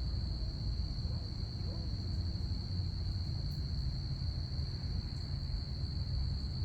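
Crickets chirping in a steady, unbroken high-pitched trill, over a constant low rumble.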